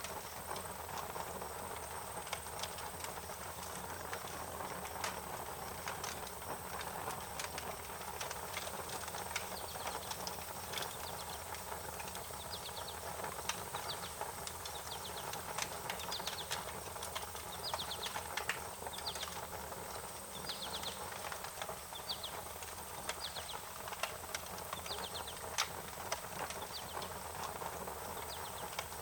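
Wood fire crackling, with irregular sharp pops over a steady hiss. Through the middle, short high rapid trills repeat every second or two.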